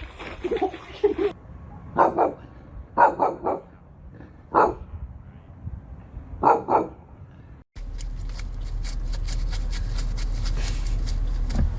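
A dog barking: a single bark, then a quick run of three, then more barks singly and in a pair over about five seconds. After a sudden cut, a steady low hum with fine crackling.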